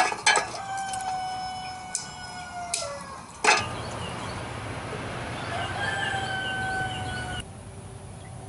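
Rooster crowing twice, each a long drawn-out call that falls in pitch at the end. Sharp clicks in between, and a louder knock about three and a half seconds in.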